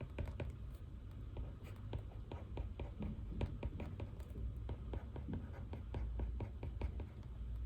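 Pen writing on paper: handwritten note-taking in quick, irregular short strokes, over a low steady room hum.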